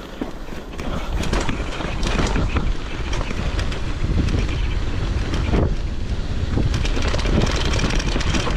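Wind buffeting the microphone over the clattering and rumbling of a mountain bike riding downhill at speed, with many quick knocks from the bike over the ground. It grows louder about a second in.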